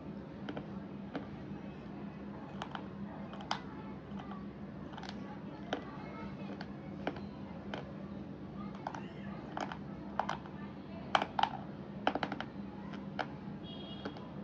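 Slate pencils being crunched: crisp, irregular snaps about once a second, with a loud quick cluster near the end. A faint steady hum runs underneath.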